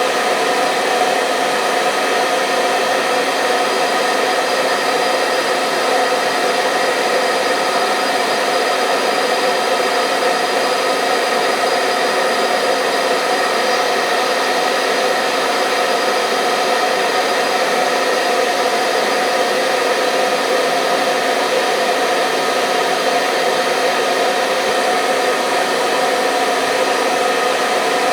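Electric hair dryer running steadily: a constant whooshing of blown air with a steady motor hum, no change in speed.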